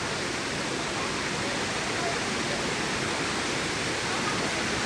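Waterfall pouring into a plunge pool: a steady, even rushing of falling water.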